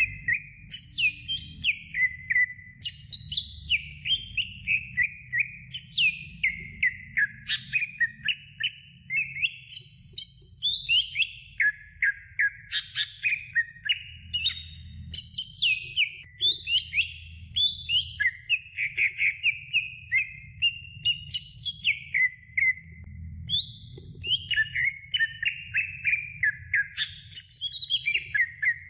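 Green leafbird (cucak hijau) singing a long, unbroken run of quick chirps and clear whistled notes, many sliding down in pitch, with a faint low hum underneath.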